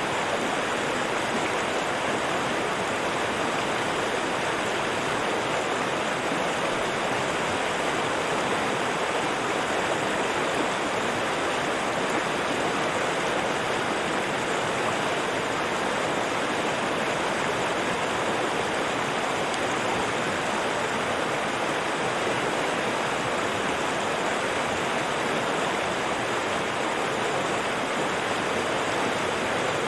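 River water rushing and splashing in a steady, even stream.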